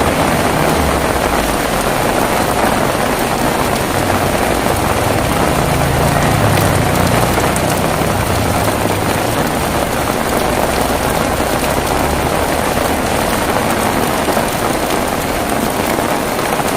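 Heavy rain falling steadily. A low rumble swells about five seconds in and fades a few seconds later.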